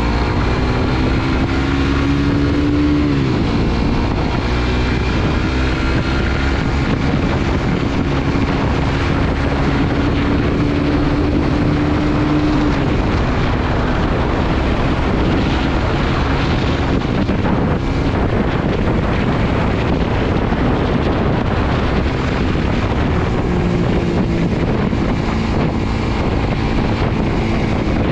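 Suzuki GSX-R150's single-cylinder engine under way: its pitch climbs, drops sharply about three seconds in, holds steady, then drops again about halfway through and rises once more near the end. Heavy wind noise on the microphone throughout.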